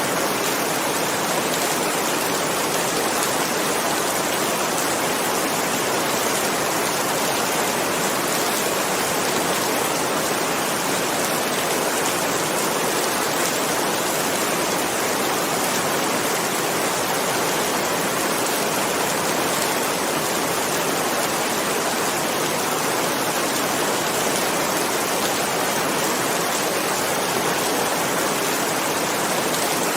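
Steady heavy rain, an even hiss that does not change.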